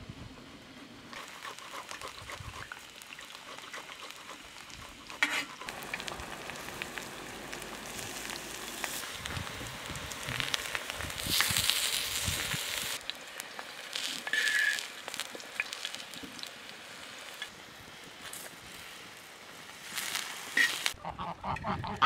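Eggplant slices sizzling as they fry in oil on a metal griddle pan, the sizzle loudest about halfway through. Geese honk briefly near the end.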